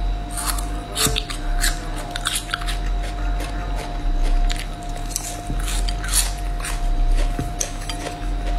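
Close-miked chewing and biting of chewy braised spicy beef skin, a run of irregular short wet clicks and smacks from the mouth, over a steady low hum.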